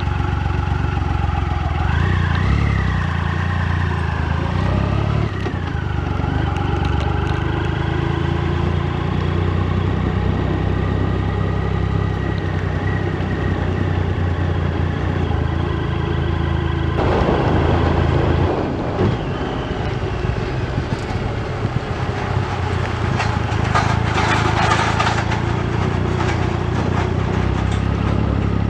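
Motorcycle engine running at road speed under wind rush, its revs rising and falling. A louder rush of noise comes a little past halfway.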